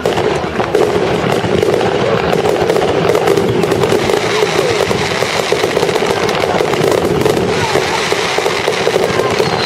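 Fireworks display going off: a dense, continuous crackling and popping, many small reports in quick succession without a pause.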